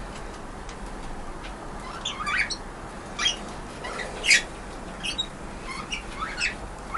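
Budgerigars chirping: a handful of short, high chirps, some sliding upward, spaced out over a few seconds, the loudest about four seconds in.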